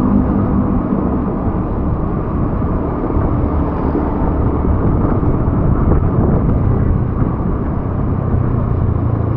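Steady vehicle driving noise: a low engine hum under a constant rumble of tyres and road, with no distinct events.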